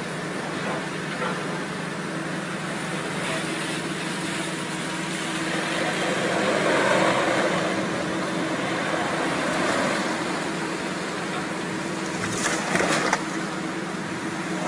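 Steady car driving noise, tyre and engine hum, with a gentle swell in the middle and a few brief knocks near the end.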